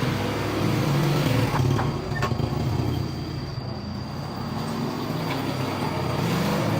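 Motorbike engine running steadily, its pitch rising and falling a little.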